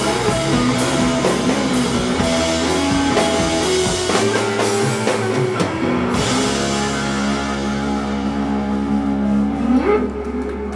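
Live rock band playing an instrumental passage with drum kit and guitar. The drums stop about six seconds in, leaving a held chord ringing on.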